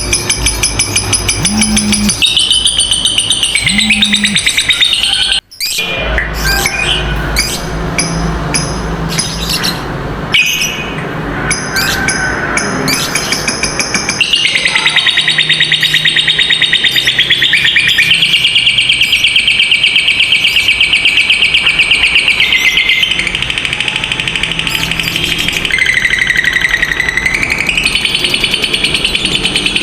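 Lovebirds chattering, then from about halfway one long, unbroken, rapid high trill, the prized 'ngekek panjang', held for over fifteen seconds and stepping down and back up in pitch near the end.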